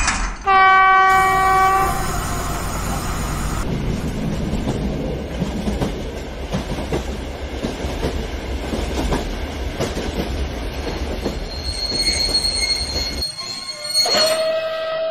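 A train horn sounds a blast of about a second and a half about half a second in, followed by the steady rumble of a running train with clicking wheels. A second, higher-pitched horn blast starts near the end.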